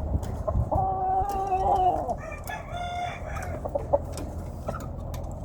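A Hatch gamefowl rooster crowing once, starting about a second in and lasting about two and a half seconds, the call stepping up in pitch partway through. A steady low rumble runs underneath.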